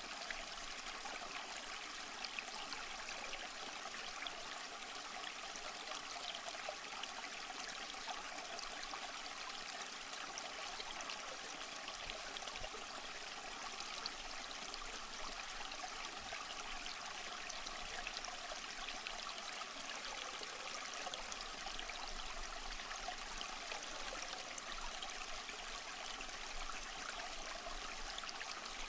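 Small stream flowing and trickling over rocks, a steady babble of water with fine splashes.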